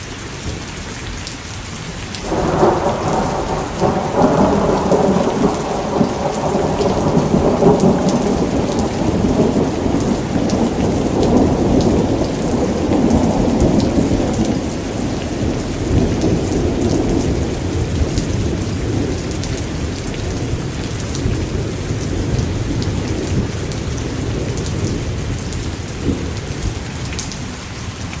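Steady rain, with a long roll of thunder that breaks in suddenly about two seconds in, rumbles for over twenty seconds and slowly fades out.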